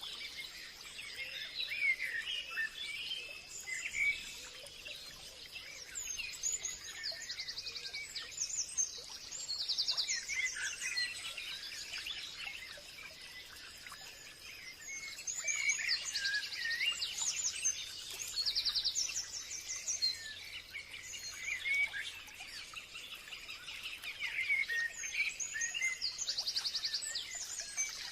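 Forest birds calling and singing over one another: short chirps, swooping whistles and fast trills that come in waves, loudest around the middle and near the end, over a faint steady high-pitched tone.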